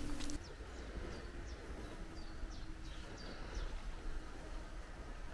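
Outdoor ambience: a small bird gives a string of short, high, falling chirps every half second or so, over a steady low rumble.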